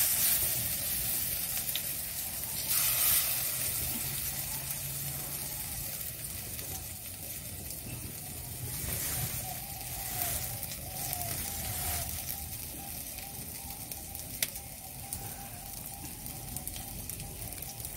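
Egg-and-pumpkin-flower fritters sizzling in a shallow layer of hot soybean oil in a steel kadai, a steady hiss with scattered crackles. It swells briefly about three seconds in and again around ten seconds in.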